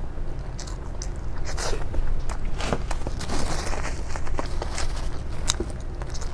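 Close-miked eating sounds: irregular crunches and wet chewing clicks over a steady low hum.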